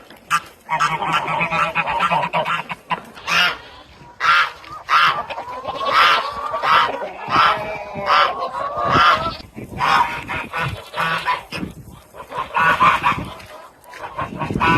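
Domestic geese honking: a long run of short, repeated honks, one after another with barely a pause.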